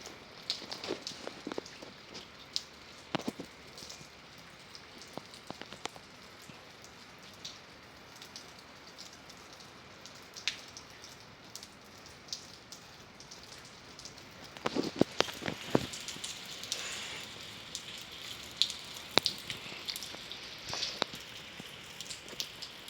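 Rain falling steadily on a hard surface: an even hiss with scattered sharp drop taps, a cluster of louder taps about fifteen seconds in.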